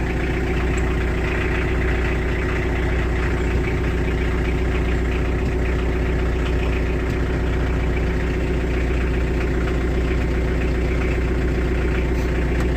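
Kioti tractor's diesel engine idling steadily.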